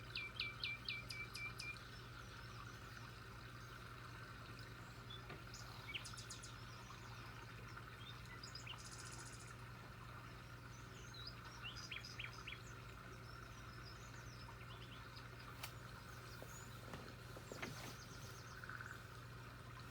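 Several birds chirping and calling: a quick run of about seven repeated notes at the start, then scattered chirps and whistled notes with a short high buzzy trill midway, faint over a steady low hum.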